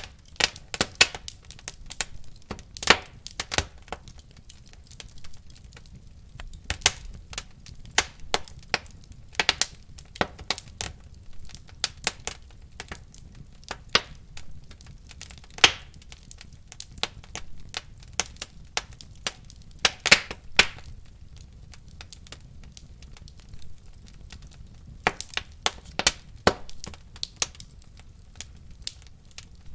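Fire in a fireplace crackling: irregular sharp pops and snaps, some coming in quick clusters, over a faint low steady rumble.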